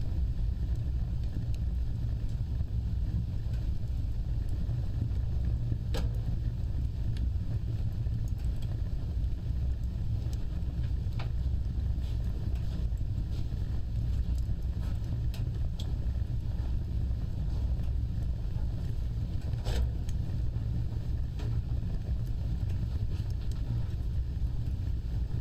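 Wood fire burning with a steady low roar and a few sharp crackles and pops, the clearest about six seconds in and again near twenty seconds.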